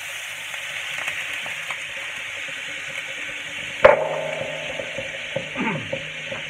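Diced ham sizzling in hot oil in a stainless steel pan. About four seconds in, a sharp knock on the pan rings briefly, followed by a few lighter clinks and scrapes.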